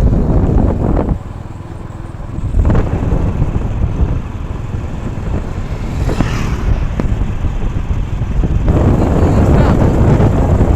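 Wind buffeting the microphone in uneven, rumbling gusts, easing off briefly about a second in.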